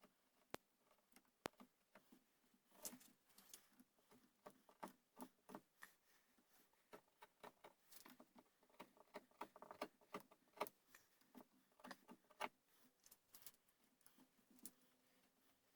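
Faint, irregular clicks and short scrapes of hand tools working a wooden gunstock while the buttplate is inlet and fitted.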